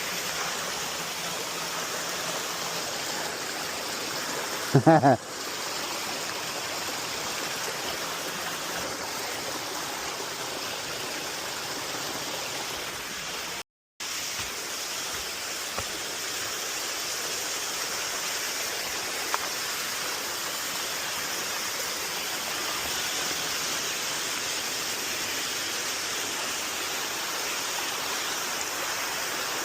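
Steady rushing of a mountain stream and waterfall. A brief vocal sound cuts in about five seconds in, and the sound drops out for a moment midway.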